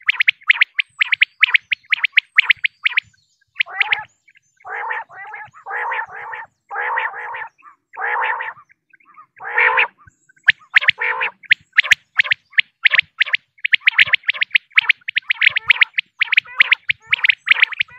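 Female common quail calling: a rapid series of short high chirps, breaking about three seconds in into a run of about six longer, harsher, lower notes, then rapid chirping again from about ten seconds in.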